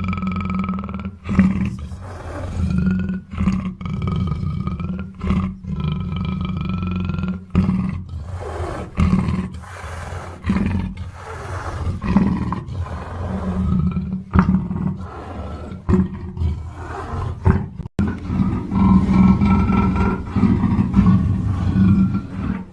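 Black panther calling: a long run of big-cat calls, one after another with short breaks between them, some breaking off abruptly.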